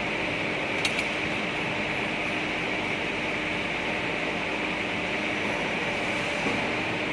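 CNC pipe bending machine running with a steady hum and hiss, and two sharp clicks about a second in.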